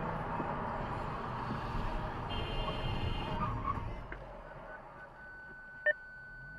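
Road and engine noise of a car driving, which drops away about four seconds in. A steady high beep starts about five seconds in, and a single sharp click comes near the end.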